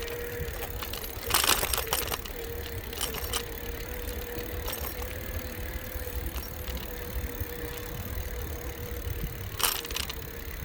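Bicycle riding along a rough road: wind rumbling on the microphone with a thin steady hum, and the bike rattling over bumps, loudest about a second and a half in and again near the end.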